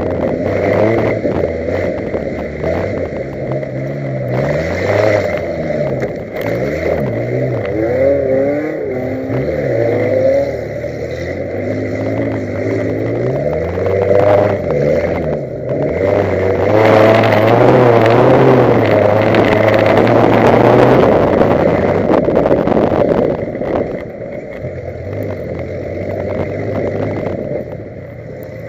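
Racing car's engine revving and easing off again and again as it is driven hard along a muddy dirt track, heard up close from the car itself, with road noise throughout. It is loudest about halfway through and quietens near the end.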